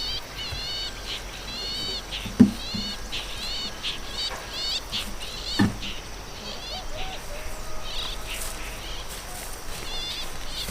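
A bird chirping over and over in short, quick, curving high notes, with two sharp knocks about two and a half and five and a half seconds in.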